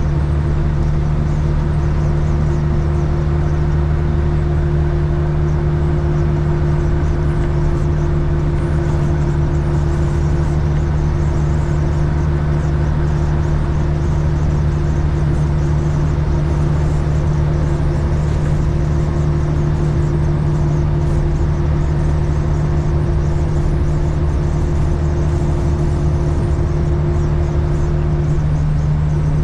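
Freightliner FLD120's Cat 3406E diesel engine running at a steady highway cruise, heard from inside the cab: a constant low drone over road noise.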